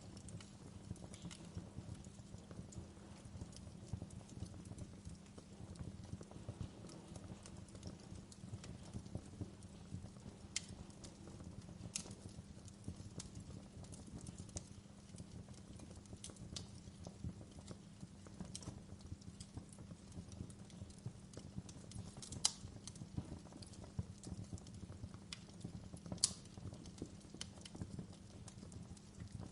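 Campfire burning: a steady low rumble of the fire with constant small crackles and a few sharper pops, the two loudest in the latter part.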